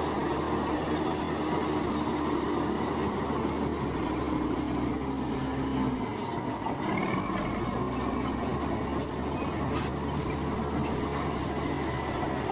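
Komatsu bulldozer at work: its diesel engine running steadily while the steel tracks squeal and clank.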